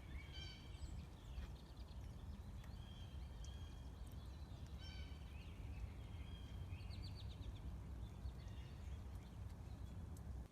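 Small birds chirping and trilling in short phrases every second or two over a steady low rumble.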